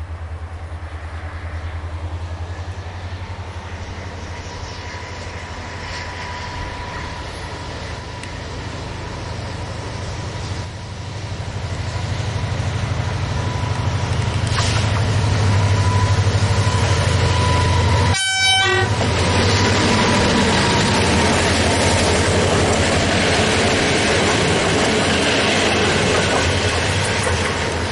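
Diesel passenger train approaching and passing: a steady low engine drone grows louder about halfway through, then gives way to the rush and rattle of wheels on the rails. The sound drops out for a moment about two thirds in.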